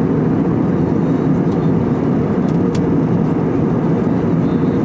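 Loud, steady rushing noise of an airliner's jet engines and airflow heard inside the passenger cabin.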